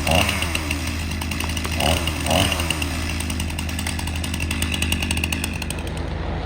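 Chainsaw running at high speed, its buzz rising and falling, over the steady low hum of a heavy engine; the chainsaw fades out about six seconds in.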